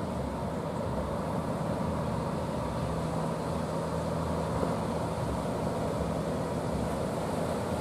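Heavy ocean surf at a river-mouth inlet, a steady deep rumbling roar with wind buffeting the microphone. A faint steady engine hum, most likely a boat's, comes in about three seconds in and fades near the end.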